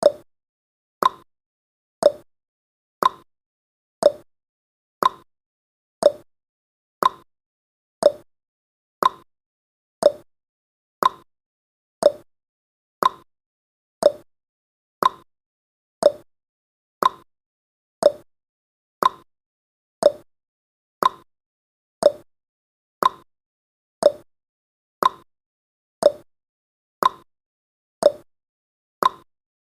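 Countdown timer's tick-tock sound effect: one short tick every second, alternating between a lower and a higher pitch.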